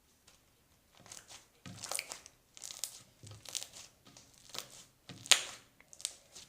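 Slime being kneaded and squeezed by hand with clay worked into it, giving irregular squishy crackles that start about a second in.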